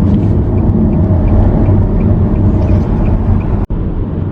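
Steady low road and engine rumble inside a moving car's cabin, with a faint ticking about three times a second; the sound drops out for an instant near the end at an edit cut, then the cabin rumble resumes.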